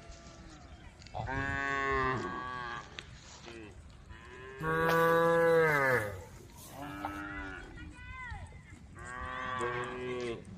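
A cow mooing over and over, about five moos. The loudest comes about halfway through and drops in pitch as it ends.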